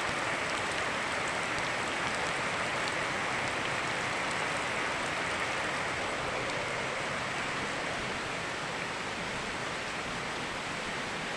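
Steady rain together with a flowing river: an even rushing hiss of water with a few faint drop ticks.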